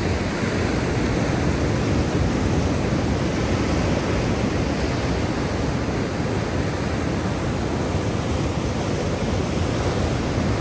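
Black Sea surf making a steady, even rushing noise with no distinct wave breaks standing out.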